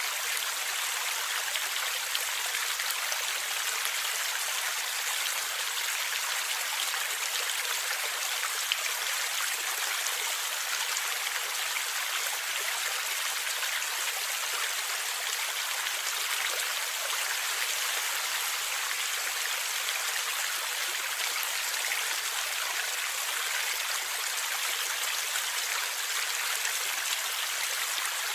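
Gurgling stream water flowing steadily: an even, hissy rush with fine splashes through it and no deep rumble.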